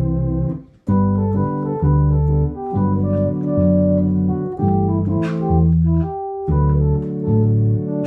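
Yamaha electronic organ being played: held chords over a moving bass line, with the notes changing about every second, a brief break about a second in, and a short hiss-like splash about five seconds in.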